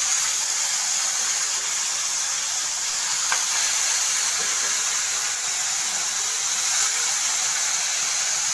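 Food frying in a wok of hot oil: a loud, steady sizzle from the bubbling oil.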